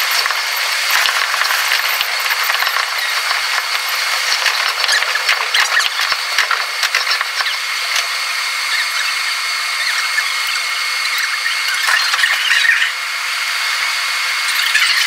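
The running sound of electric train 51005, heard in the driver's cab and sped up six times, so it comes out as a continuous high-pitched squealing, rattling chatter with no low end.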